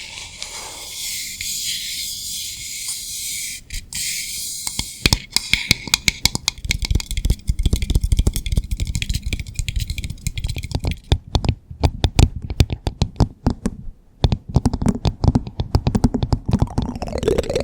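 Close-miked ASMR trigger sounds: a soft hiss for the first few seconds, then rapid, irregular clicking and tapping with brief pauses.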